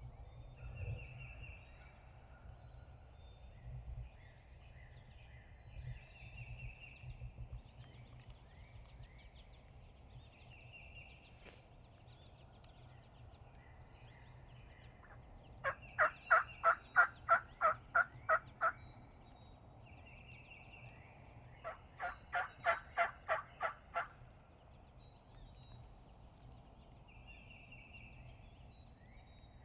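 Two series of turkey yelps, each about ten evenly spaced notes at three to four a second, around the middle. Small birds chirp faintly in between.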